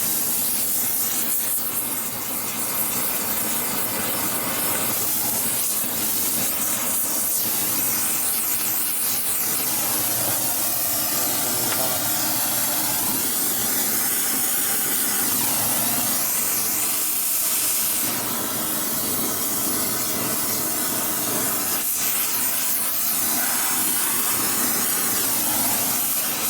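Gas torch flame hissing steadily as it heats a small metal fuel strainer.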